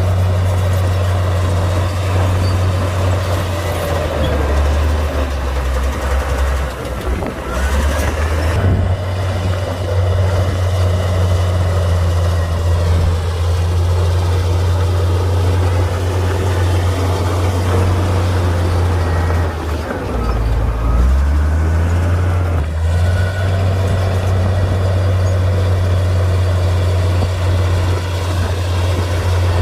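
Komatsu D58P bulldozer's diesel engine running steadily under load while pushing dirt, its low note sagging briefly about four seconds in, again around eight seconds, and near the twenty-second mark as it lugs.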